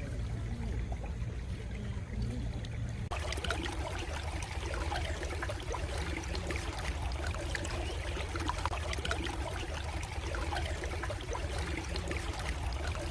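Stream water trickling and babbling over a steady low rumble; about three seconds in the water sound turns suddenly brighter and fuller.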